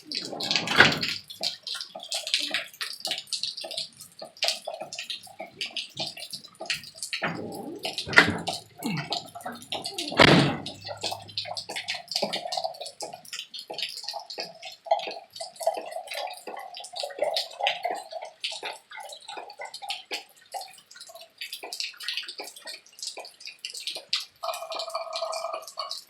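Rain falling, with many irregular drips and splashes of water and a few louder hits about 1, 8 and 10 seconds in.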